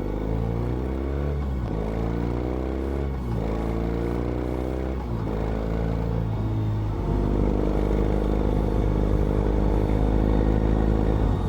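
BMW R18's big boxer-twin engine accelerating through the gears. Its pitch climbs and drops back at each shift, four times in about seven seconds, then it holds a steady pitch while cruising.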